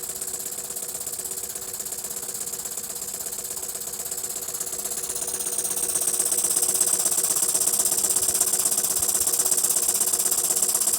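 Jensen 50 toy steam engine running fast and steady, a rapid even chuff and clatter from the engine and the generator it drives. About halfway through it gets louder, with more hiss.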